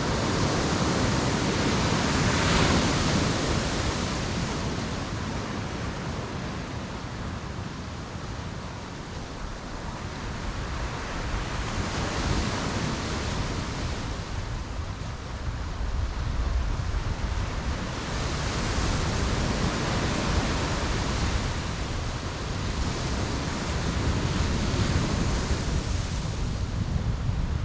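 Ocean waves breaking on the beach, each wash swelling and fading every several seconds over a steady low rumble of surf.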